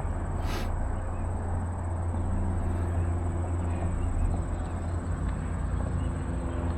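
Steady wind rumble buffeting the microphone, with a thin high steady tone above it.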